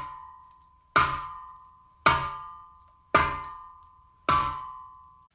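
Five sharp strikes about a second apart, each leaving a clear ringing tone that fades before the next; the last ring is cut off suddenly.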